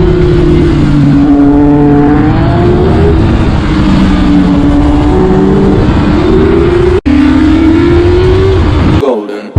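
Motor vehicle engine running under way, its pitch rising and falling several times as it speeds up and eases off, over a steady rushing noise. The sound drops out for an instant about seven seconds in and fades near the end.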